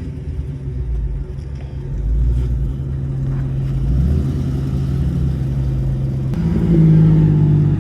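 Car engine idling with a low, steady note, stepping up in pitch and getting louder about six seconds in as it is revved lightly.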